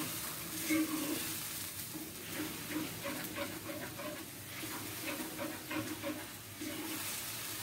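Blended spice paste sizzling as it fries in oil in a wok, stirred with a metal ladle whose repeated strokes scrape against the pan over a steady hiss.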